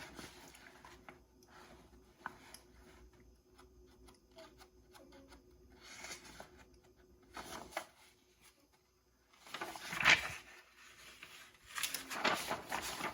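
Plastic parts trees from a model truck kit being handled and shifted around: scattered light clicks and rustles, with louder rustling about ten seconds in and again near the end.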